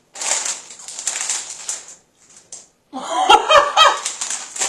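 Crunchy chips being chewed close to the microphone, then laughter with clicks of handling near the end.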